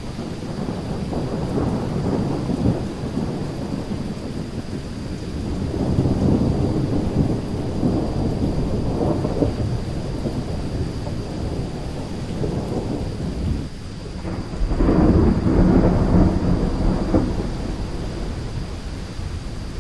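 Thunderstorm: continuous low rolling thunder over steady rain, swelling into a louder peal about three-quarters of the way through.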